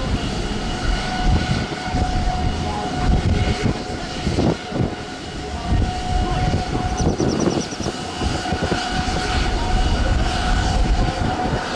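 Airliner engines running, a steady whine over a dense rumble.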